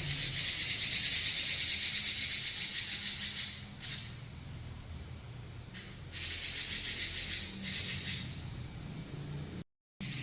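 Pekin robin (red-billed leiothrix) singing a long, rapid rolling trill that lasts about three and a half seconds, then a second rolling burst about six seconds in that lasts about two seconds. The sound cuts out briefly near the end.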